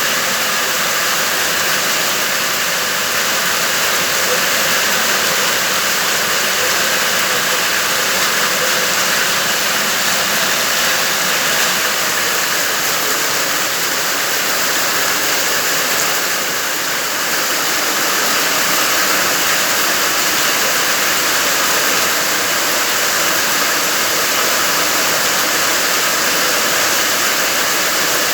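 Heavy rain pouring down, a loud, steady hiss that holds without let-up.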